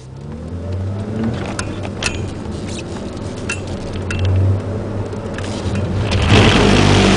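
Ford Puma's 1.7-litre four-cylinder engine heard from inside the cabin, revving up over the first second or so as the car accelerates, then running at steady revs. A few sharp clicks sound along the way, and a louder rushing noise joins in near the end.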